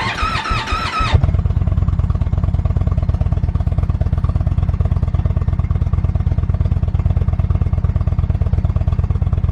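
Indian Roadmaster's V-twin motorcycle engine starting about a second in, after a brief wavering high tone, then idling with an even, rapid low pulse.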